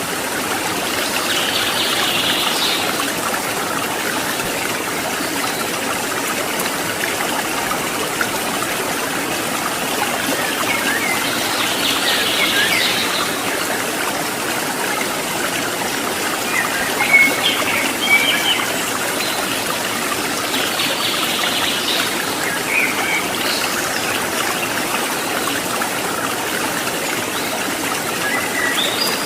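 Mountain stream water running steadily. A bird calls briefly every nine seconds or so, with a few short chirps about two-thirds of the way through.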